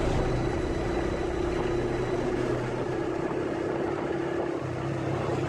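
Motorcycle engine running steadily while riding, with a constant drone and road noise.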